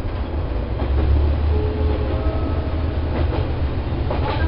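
Diesel railcar running along the line, heard from inside: a steady low rumble with a few clicks of the wheels over rail joints.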